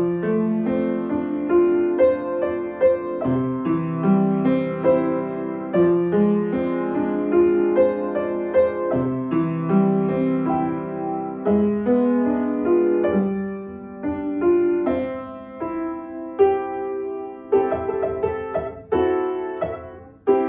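Slow, gentle piano music: single notes and chords struck and left ringing as they fade.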